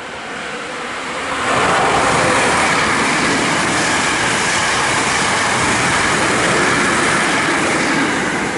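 A Hankyu electric train passes the platform at speed. A steady rush of wheel and running noise builds as it arrives, stays loud and even for about six seconds, then eases near the end as the last car goes by.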